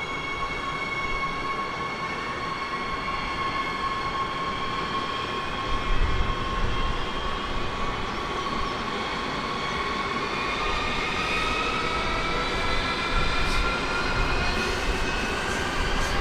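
Electric train running with a steady whine from its drive, rising slowly in pitch through the second half, over a rumble that grows heavier about six seconds in.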